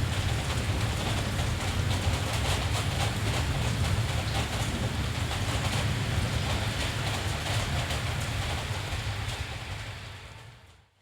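Steady rain with a constant low rumble underneath, fading down to near silence in the last second.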